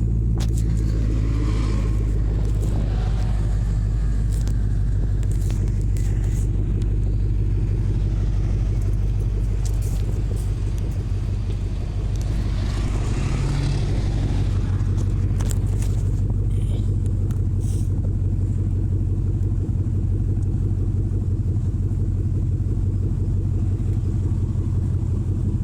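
A car engine idling steadily with a deep, even rumble, and traffic faintly passing.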